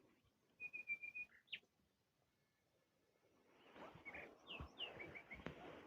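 Small birds chirping faintly: a quick run of about five short high notes, then a single sweeping note. Later a soft rushing noise rises, with more chirps over it.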